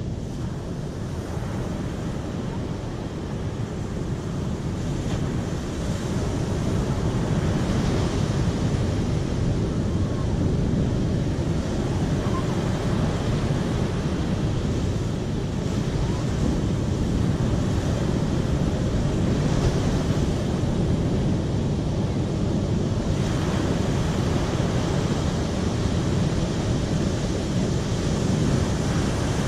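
Steady rushing water with a deep, even roar and no distinct splashes, growing a little louder over the first few seconds.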